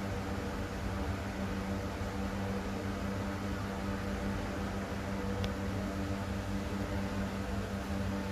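Steady electrical or machine hum: a constant low drone over an even hiss.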